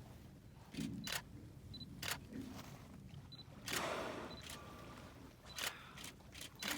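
Camera shutters firing in scattered single clicks, about half a dozen, with several short high beeps between them. A brief rush of noise comes about halfway through.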